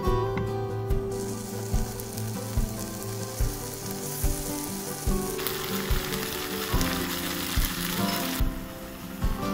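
Aged kimchi sizzling as it fries in oil in a non-stick frying pan. The sizzle grows much louder a little past halfway and drops back near the end.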